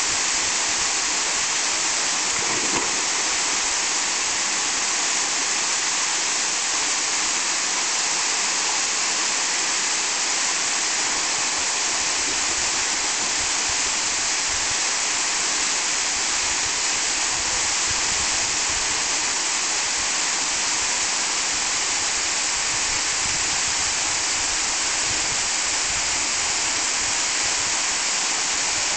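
Waterfall pouring into a pool, a steady hissing rush of falling water.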